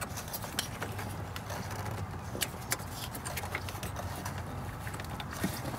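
Scattered light clicks and taps of hand work on engine parts as a fastener is worked loose, over a low steady hum.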